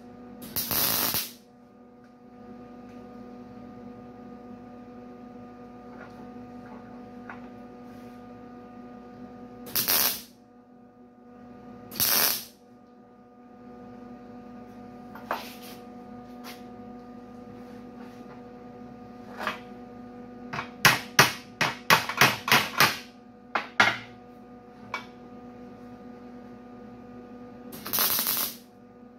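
Short bursts of MIG welding, a second or less each, tacking a steel grille bar splice, with a quick string of very brief tacks near the middle. A steady electrical hum runs under it.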